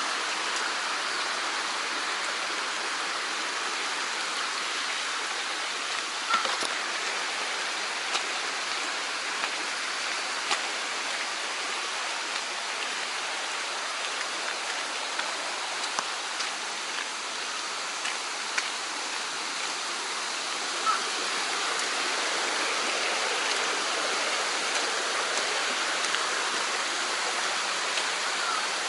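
Mountain stream rushing steadily over rocks, with a few faint sharp clicks scattered through it.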